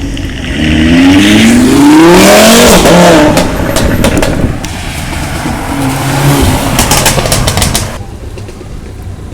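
A car engine accelerating hard, its note climbing steeply in pitch for about two and a half seconds, followed by a stretch of rushing noise with sharp crackles; a second, shorter rev comes around six seconds in, and the sound drops off abruptly near the end.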